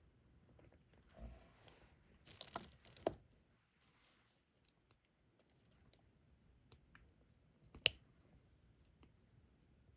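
Faint diamond-painting work: small clicks and light rustling as resin drills are handled with the drill pen and pressed onto the adhesive canvas, with a cluster of clicks about two to three seconds in and one sharper click near eight seconds.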